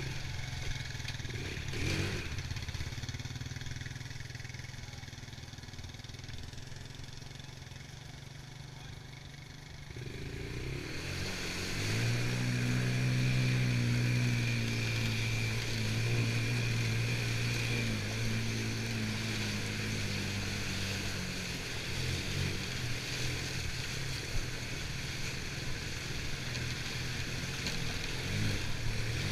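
Honda TRX90 ATV's small single-cylinder engine running steadily at low revs, then revving up about ten seconds in and holding a steady, louder drone as it rides, with a hiss rising alongside.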